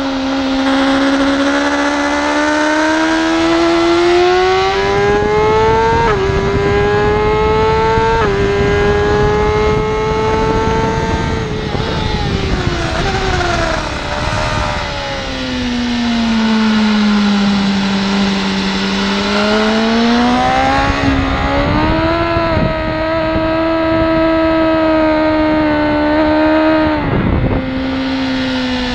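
BMW S1000RR inline-four engine on track, revs climbing with two quick upshifts about six and eight seconds in. Its pitch then falls away through the middle as the bike slows, stays low for a few seconds, and climbs again with another shift.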